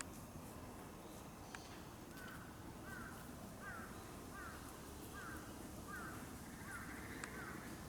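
A bird calling in a regular series of about eight short, identical calls, roughly one every 0.7 seconds, starting about two seconds in.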